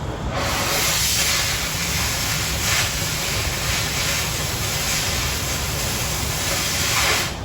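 Oxy-fuel cutting torch piercing and cutting 1/4 inch steel plate: the cutting-oxygen jet comes on with a loud hiss about a third of a second in, over the low rumble of the preheat flame, and cuts off sharply near the end.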